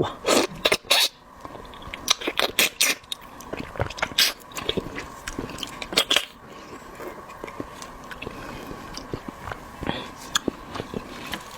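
Close-miked eating of shellfish: shells cracking and clicking as meat is picked out, with chewing. The cracks come thick and fast for the first half, then thin out to scattered clicks.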